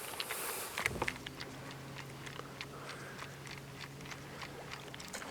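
Baitcasting reel being cranked during a retrieve, giving small irregular clicks and ticks. A steady low hum starts about a second in and stops near the end.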